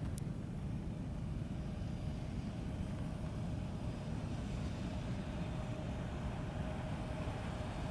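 Electric freight train approaching from a distance: a steady low rumble, with a faint steady hum coming in about halfway and growing a little stronger.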